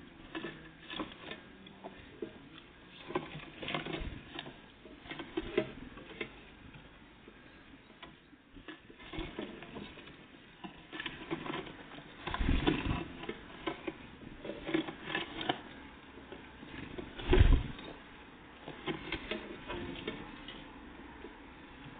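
Great tits and blue tits feeding at a bird feeder: irregular light taps and scrabbling as they peck and hop about. There are two louder thumps, one a little past halfway and one about three-quarters of the way through.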